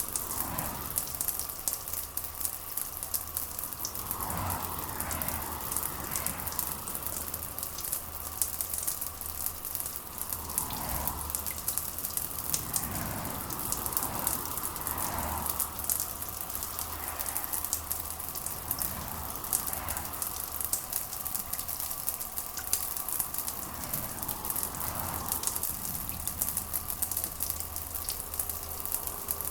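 Steady rain falling: a dense patter of drops over an even rushing hiss, with soft swells coming and going every few seconds.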